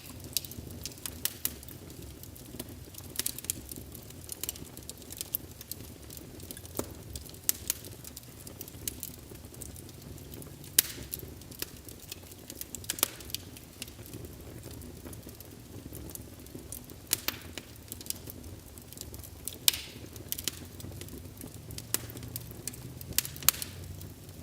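Wood fire in a fireplace burning with a steady low rumble and irregular sharp crackles and pops, a few of them louder, scattered throughout.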